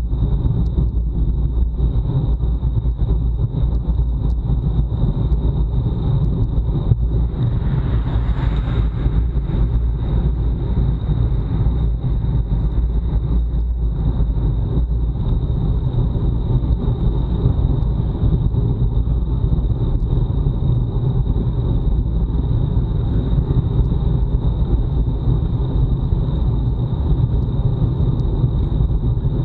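Wind buffeting the microphone of a bike-mounted action camera while riding at time-trial speed, a loud steady low rumble with a faint steady high whine. A brief louder hiss comes about eight seconds in.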